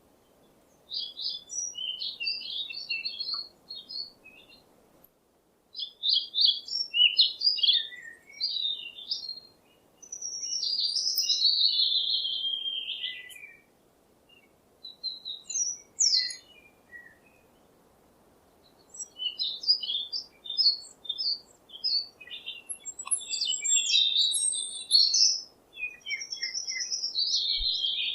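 A songbird singing: phrases of quick high chirps and warbling, sliding notes, each a few seconds long, with short pauses between them.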